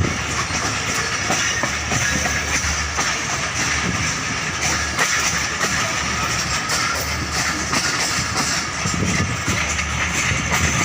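Passenger train running on the rails: a steady rumble and rattle with scattered clicks of the wheels on the track.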